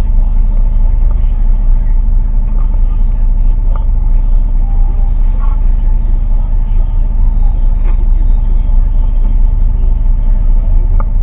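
Loud steady low drone of an engine running, with a constant hum.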